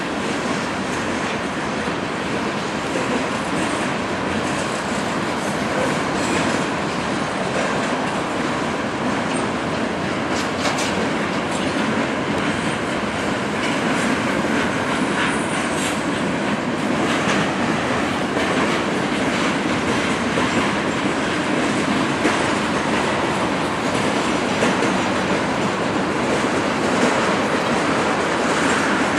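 A BNSF freight train rolling past at a steady speed: a continuous rumble of cars on the rails, with the wheels clicking over rail joints.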